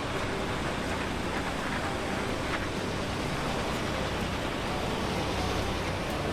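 Steady rumble and noise of a large vehicle running, with no distinct events.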